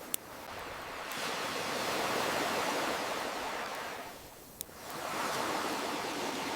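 Ocean waves washing in, one swelling and fading away before the next comes in, with two sharp pops from a crackling wood fire, one just after the start and one about four and a half seconds in.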